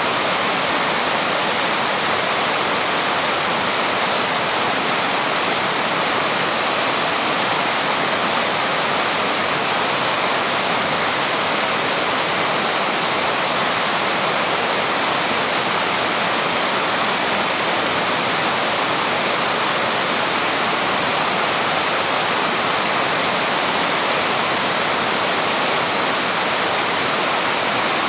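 A waterfall's steady rushing water, unbroken and even throughout.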